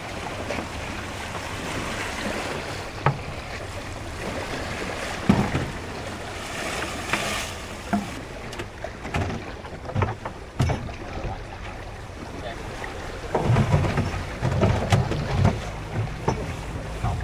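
Wind and sea around a small boat or hut at sea, with a few scattered knocks. Wind buffets the microphone in heavy gusts during the last few seconds.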